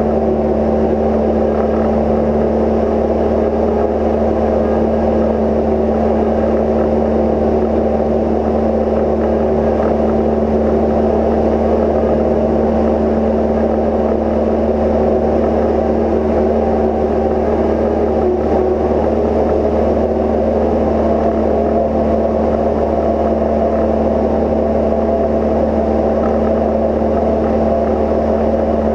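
Cozy Mk IV's pusher engine and propeller droning steadily in cruise flight, with a constant hum.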